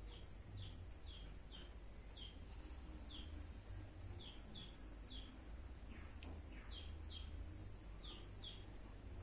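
Faint bird chirping: short, high, falling chirps, often two in quick succession, repeating about once or twice a second over a low steady hum.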